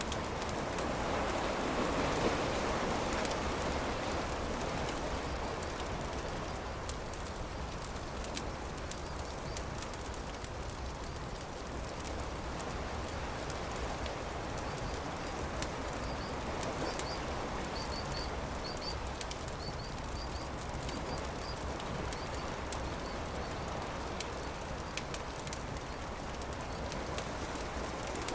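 Campfire crackling with scattered sharp pops over a steady wash of surf that swells near the start. A short series of high bird chirps comes in about halfway through.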